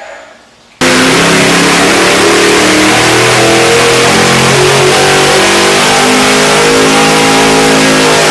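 High-performance car engine running very loud at high revs, its pitch climbing slowly as it pulls. It cuts in abruptly about a second in.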